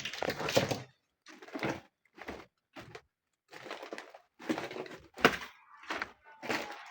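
Irregular knocks and crunching clatter: about eight separate bursts with short silent gaps between them.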